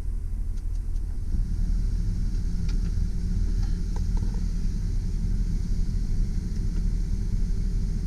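2005 Chevy Silverado 2500 HD pickup's engine idling steadily, heard from inside the cab as a low rumble, with a few faint clicks a few seconds in.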